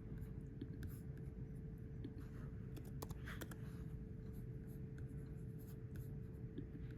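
Steady low hum of room and equipment noise with a thin constant tone, and a few faint scattered clicks and rustles.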